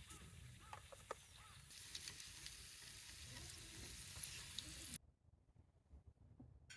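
A faint sizzling hiss with a few crackles that cuts off suddenly about five seconds in, with small chirping calls in the first second or two.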